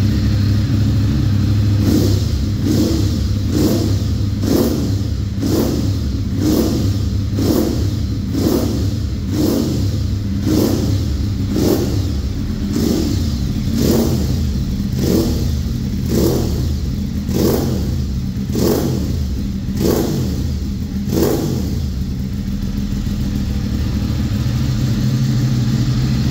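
Ducati 848 Evo's L-twin engine idling steadily through a full Termignoni exhaust system. Over it there are regular footstep-like taps about every three-quarters of a second, from about two seconds in until a few seconds before the end.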